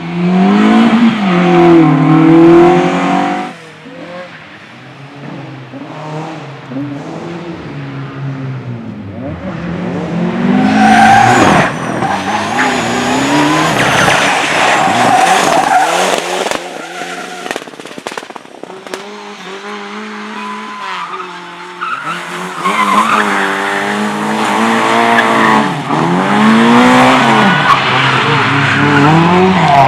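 Competition car engine revving hard, its pitch swinging up and down, with tyres squealing and skidding. It is loud for the first few seconds, drops away briefly, then builds again about ten seconds in and once more after about twenty seconds.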